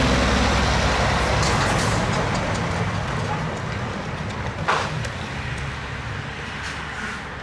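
Scania S 500 truck's diesel engine running steadily, its level slowly falling away. A short hiss comes about four and a half seconds in.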